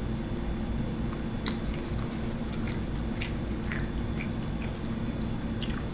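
A person biting and chewing a mouthful of fried food close to the microphone: scattered small crunches and clicks every half second or so, over a steady background hum.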